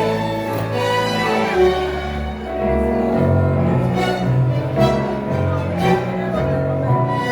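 Tango orchestra (orquesta típica) playing an instrumental passage between sung verses, with sustained bowed strings and a heavier bass line coming in about three seconds in.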